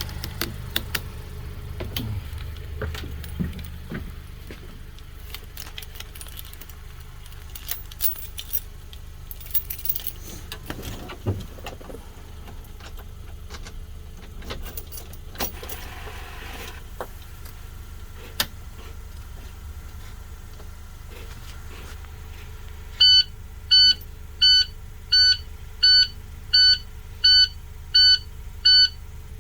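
2013 IC CE school bus's diesel engine idling just after a cold start, a low steady rumble that eases a little in the first few seconds, with scattered light clicks and rattles. Near the end a warning beeper starts, beeping about three times every two seconds.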